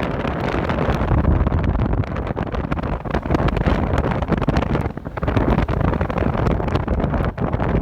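Wind buffeting the microphone: a loud, gusting rumble strongest in the low range, with rapid flutter.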